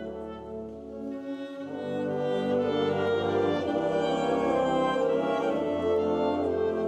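Concert band playing a slow piece in long held chords, swelling louder about two seconds in.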